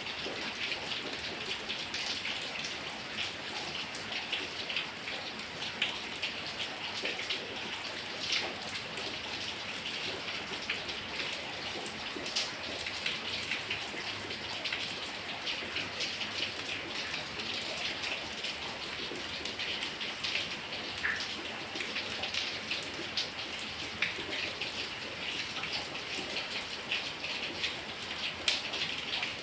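Heavy rain falling steadily, with the sharp ticks of many individual drops striking close by.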